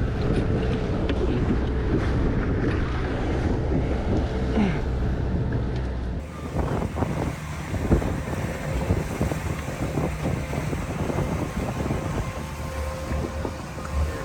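A fishing boat's engine running steadily under wind buffeting the microphone, with sea noise. About six seconds in the sound changes abruptly to rougher, gusty wind on the microphone.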